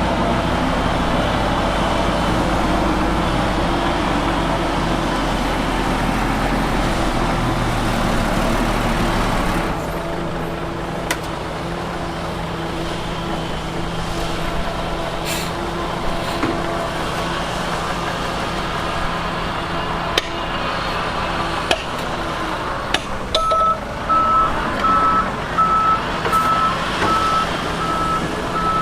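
Diesel engines of heavy earthmoving machinery running steadily, a heavy low rumble that drops off about ten seconds in, with scattered metallic knocks and clanks. Near the end a reversing alarm starts beeping at about two beeps a second, as a truck backs up.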